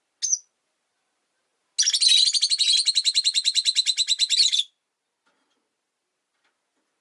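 Rosy-faced lovebird giving one short high chirp, then about a second and a half later a rapid chatter of evenly spaced notes, about a dozen a second, lasting about three seconds.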